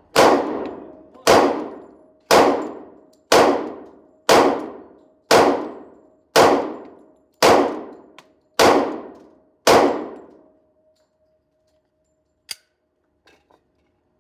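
A handgun fired ten times at a steady pace of about one shot a second, each shot loud and sharp with a long fading ring. A faint metallic ringing tone hangs on after the string ends, and a single click comes a couple of seconds later.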